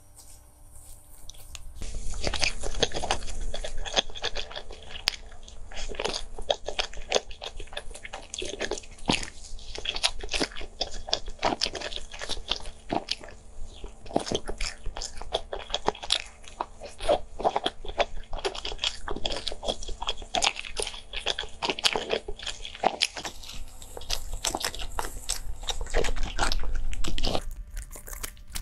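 Biting and chewing of a soft cream-filled sponge cake roll, with mouth and lip sounds, starting about two seconds in and going on throughout.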